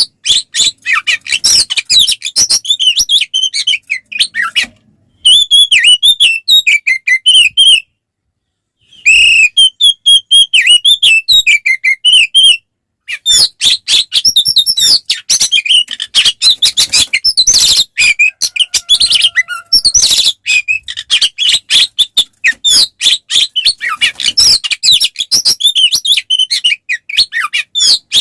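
Oriental magpie-robin (kacer) singing a loud, fast run of varied chattering and whistled phrases, its full-throated fighting song. The singing breaks off briefly about 5 seconds in and again around 8 seconds.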